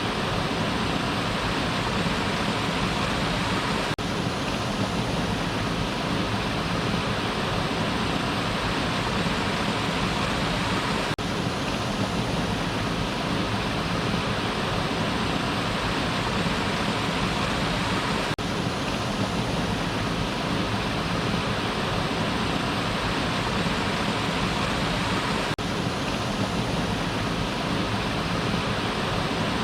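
Waterfall: water falling and rushing in a steady, unbroken roar of noise, with a faint tick repeating about every seven seconds.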